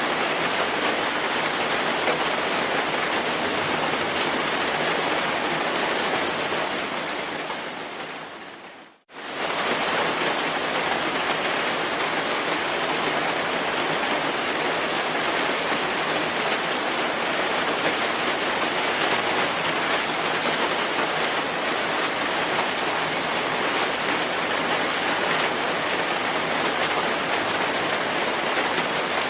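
Steady heavy rain falling, an even hiss of rainfall. About seven seconds in it fades away, drops out for a moment just after nine seconds, then comes straight back at full level and carries on steadily.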